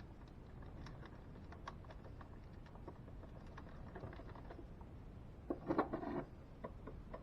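Light clicks and taps of the plastic parts of a vacuum cleaner brush hood being handled and fitted back together, with a short, louder clatter of clicks about five and a half seconds in.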